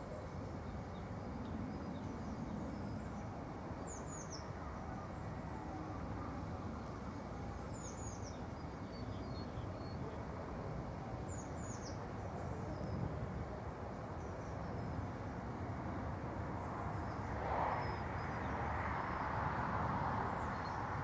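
Small birds chirping a few times, short high falling chirps, over a steady background rush; the rush grows louder in the last few seconds.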